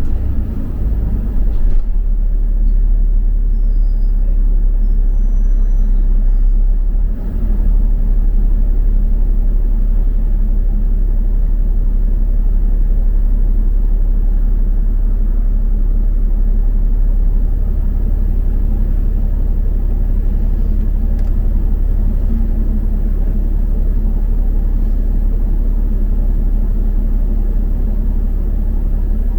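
Steady low rumble of a double-decker bus's engine and road noise heard from inside the bus while it drives. The low rumble becomes heavier a little past halfway through.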